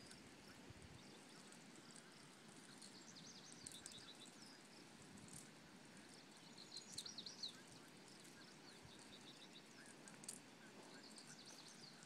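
Faint outdoor background with distant birds chirping now and then: short, high notes a few seconds in, again past the middle and near the end.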